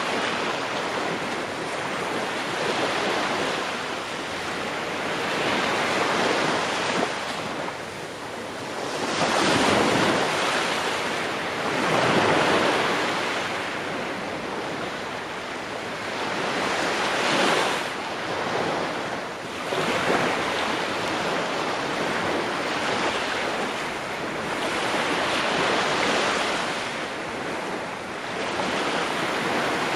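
Ocean waves breaking on a shore, a steady wash of surf that swells and ebbs, with a louder surge every few seconds.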